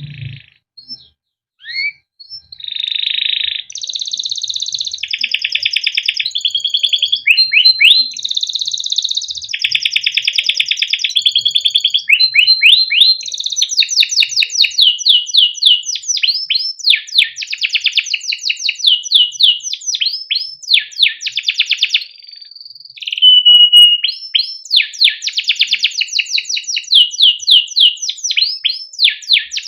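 Male domestic canary singing a long, unbroken song. Scattered notes build within a few seconds into fast trills and runs of rapid repeated rising chirps ('cuit cuit').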